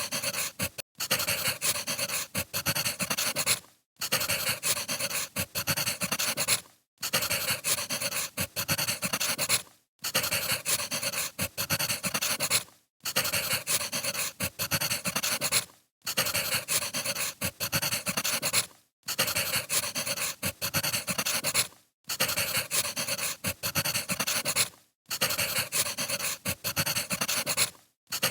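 Firewood fire crackling, a dense run of small pops and hiss, played as a loop that cuts out briefly about every three seconds.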